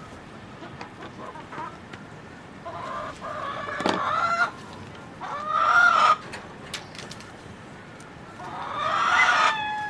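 Rooster crowing three times, each crow a second or two long and a few seconds apart; the last one trails off falling in pitch.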